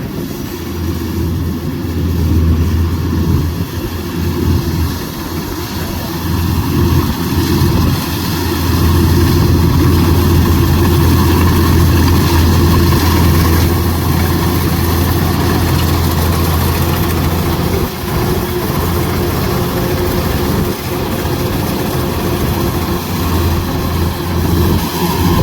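Kubota DC105X combine harvester's diesel engine running steadily while harvesting, a continuous low drone that grows a little louder for a stretch in the middle.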